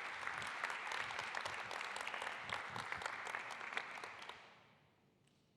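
Audience applause, many people clapping steadily, then dying away about four to five seconds in.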